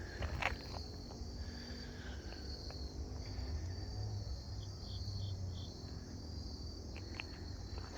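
Crickets trilling steadily over a low rumble, with four short higher chirps about halfway through.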